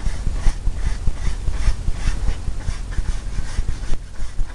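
A large 2-inch paintbrush scrubbing oil paint back and forth on a primed canvas, in rhythmic strokes about two to three a second.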